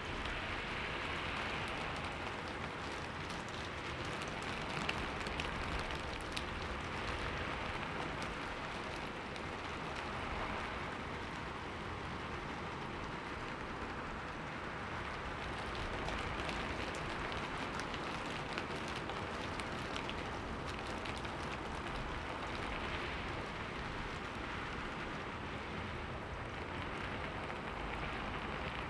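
Steady rain falling on a window: a dense patter of drops over an even hiss, swelling and easing gently every few seconds.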